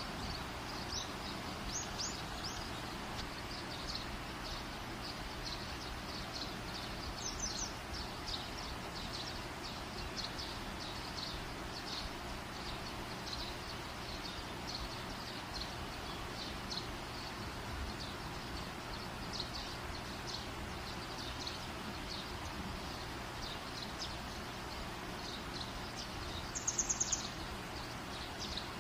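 Small birds chirping over a steady background hiss: short high chirps repeating about twice a second, with a brief louder trill near the end.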